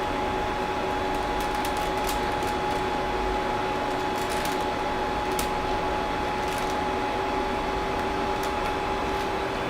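Creality CR-10S Pro 3D printer's cooling fans running steadily: an even whir with a constant two-note hum and a few faint clicks.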